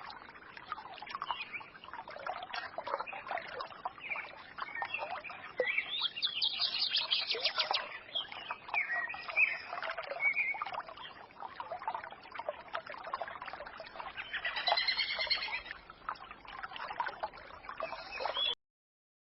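Small songbirds chirping, trilling and twittering over the steady murmur of a small forest stream, with a fast trill about six seconds in. The sound cuts off abruptly shortly before the end.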